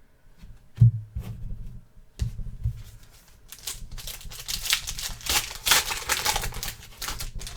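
Trading cards and a pack wrapper being handled at a table: a couple of knocks about one and two seconds in, then a longer stretch of crinkling and rustling.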